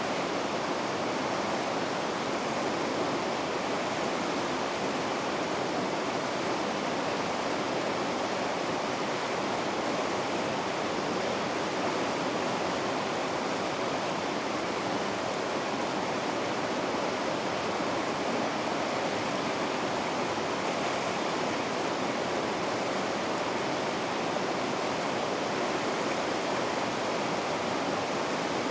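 River rapids rushing: a steady, unbroken roar of fast-flowing water over rocks.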